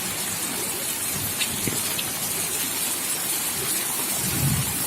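Steady rain falling, a continuous hiss of drops hitting the ground and surfaces around. A couple of dull low thumps, one about a third of the way in and another near the end, sound over it.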